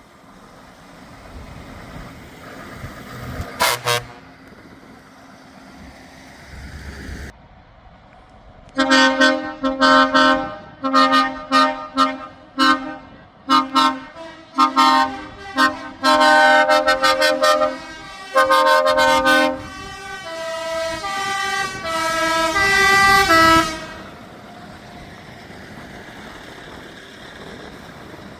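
Trucks sounding their air horns as they drive off: one short blast about four seconds in, then from about nine seconds a long run of short toots, ending with a horn stepping through changing notes like a tune.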